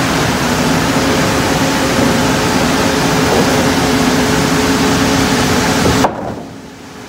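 Sawmill machinery running steadily, a loud even noise with a low hum through it; it drops off abruptly about six seconds in.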